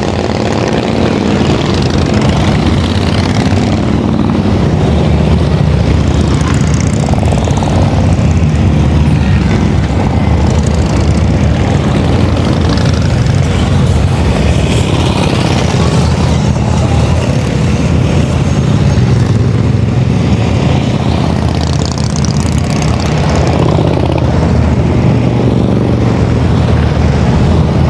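Big motorcycle engines running loudly and without a break, their pitch rising and falling as the bikes are ridden.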